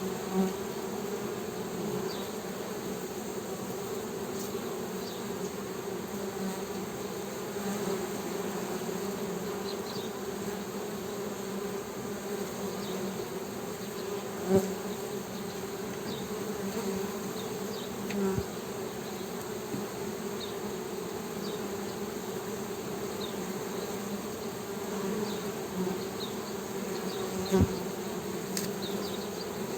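Honey bees humming steadily, a low buzz with a strong overtone, swelling briefly louder a few times.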